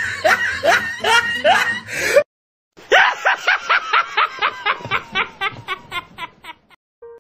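Laughter sound effects: a laugh over a music bed cuts off about two seconds in, then after a short gap a rhythmic 'ha-ha-ha' laugh, about five a second, that gradually fades out.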